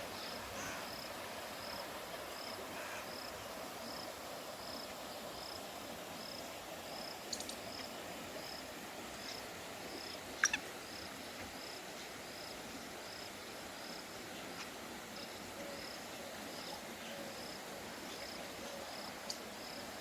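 Faint steady rush of a river, with a high-pitched chirp repeating evenly about one and a half times a second over it, like a calling cricket. Two brief sharp clicks stand out, about seven and ten seconds in.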